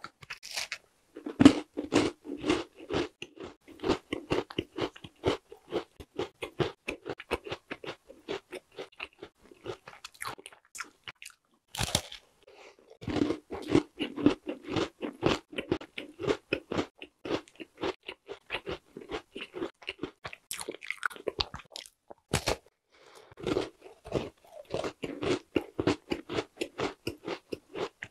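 Close-miked crunchy bites and steady chewing of a chocolate tart with a crisp cocoa cookie shell and soft white filling. A sharp crunching bite comes about a second and a half in and another around the middle, each followed by a run of rhythmic chewing.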